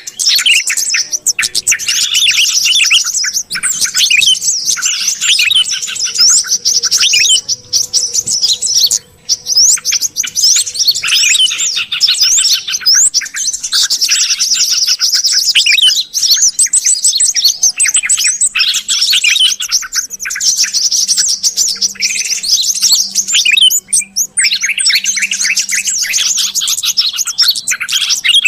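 Yellow-vented bulbuls and sooty-headed bulbuls calling together in a dense, noisy chatter of overlapping chirps and quick whistled notes, used as a bird-lure recording. It goes on almost without pause.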